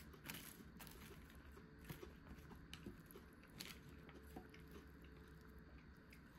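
Someone chewing a mouthful of choregi salad, with a few irregular, faint crisp crunches.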